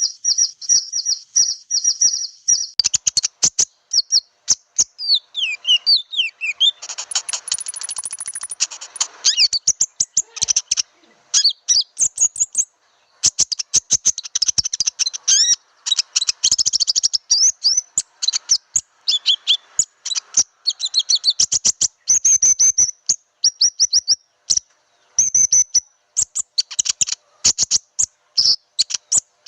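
Konin bird lure call: a fast even run of high chirps, then a busy song of sharp clicking notes, falling whistled slurs and bursts of chatter. It is a pikat call of the kind played by Indonesian bird trappers to draw wild konin birds in.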